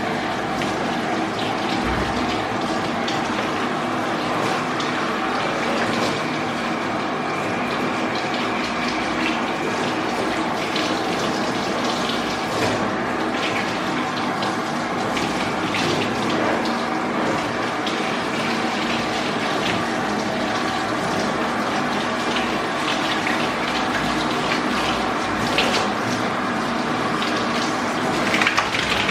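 Water running steadily from a grooming shower hose during a dog's bath, over a steady motor hum.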